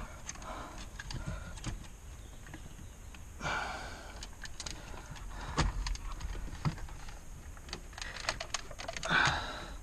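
Small plastic clicks, taps and knocks of hands working a stubborn wiring-harness plug and its tab behind car dashboard trim, with a longer rustle about three and a half seconds in and again near the end.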